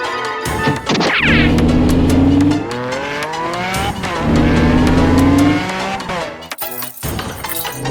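Cartoon vehicle engine sound effect revving in two long, gently rising runs, with squeals and clicks among them.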